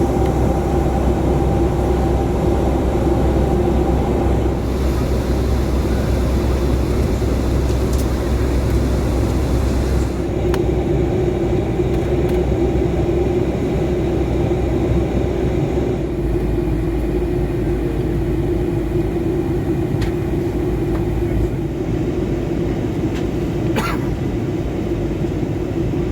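Steady cabin noise of a Boeing 757-200 airliner in flight: the roar of the jet engines and rushing air, with a constant hum. Its tone shifts abruptly a few times, and there is a brief sharp sound near the end.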